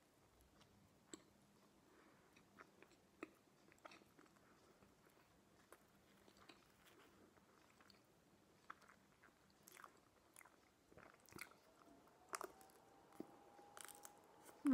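Faint chewing and small wet mouth clicks of someone eating a thick slice of stuffed pizza, with scattered soft bites.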